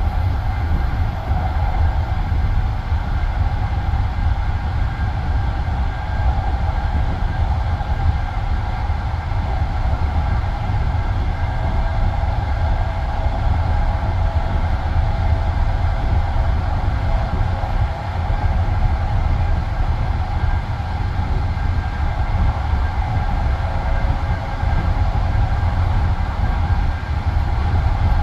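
Passenger train carriage rolling along the line between stations, heard from inside. There is a steady low rumble of wheels on rail and a faint steady whine on top, with no distinct clacks.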